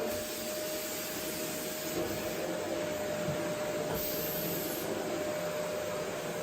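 Vacuum cleaner running steadily: an even rush of air with a thin, constant whine that fades out near the end.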